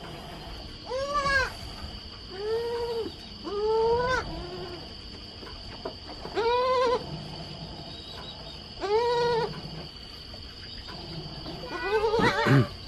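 Young goat kids bleating, about six separate calls spread over the stretch, the loudest near the end, over a steady high insect drone.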